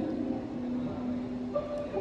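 Keyboard holding soft, sustained pad or organ chords, moving to a new chord about a second and a half in.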